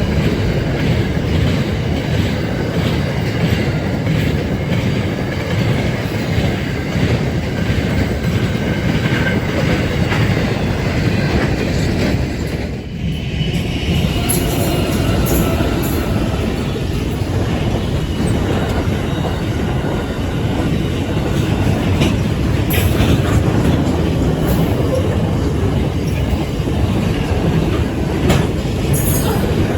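Standard-gauge intermodal freight wagons rolling past at speed: a steady rumble of steel wheels on rail with repeated clicking over rail joints and occasional faint wheel squeal.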